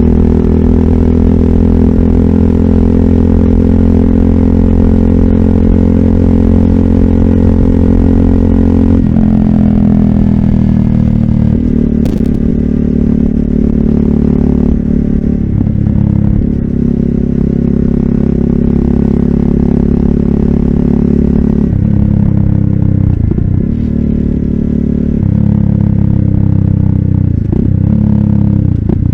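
RUSI Classic 250Fi motorcycle running through an Eli's Muffler full exhaust with a bullet pipe and dB killer, ridden at steady engine speeds. The engine note shifts pitch several times, with short dips between, as the throttle is changed or gears are shifted.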